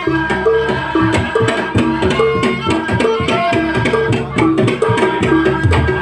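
Live Javanese kuda lumping (jaranan) ensemble music: hand drums play under a fast repeating melody of short pitched notes, with some held higher tones above.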